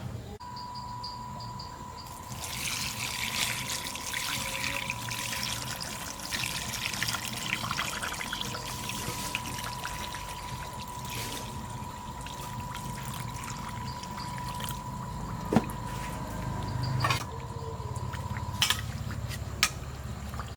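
Water pouring and trickling, with a faint steady high tone underneath and a few sharp knocks near the end.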